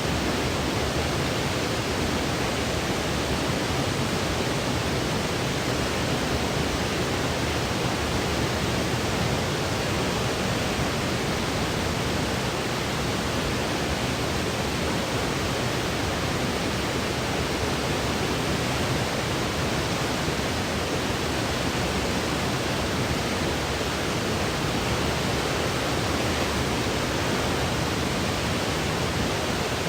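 Continuous electronically generated white noise for sleep: a steady, even rushing hiss with a fuller low end and no changes.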